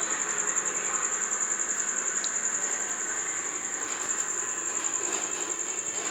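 A continuous high-pitched trill with a fast, even pulse, typical of insects calling, over a low background hiss.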